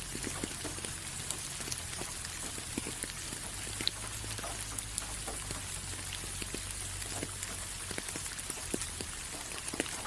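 Steady rain falling, with many individual drops striking close by at irregular intervals over an even hiss.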